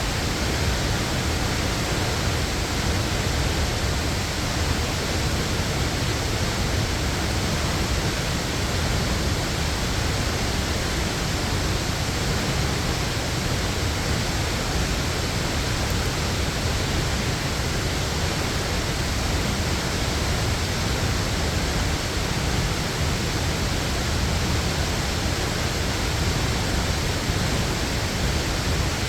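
Waterfall pouring: a steady, unbroken rush of falling water, heaviest in its low rumble.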